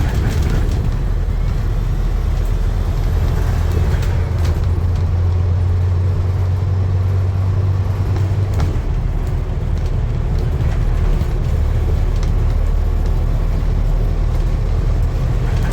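Steady low rumble of a running motor vehicle, with a few faint clicks.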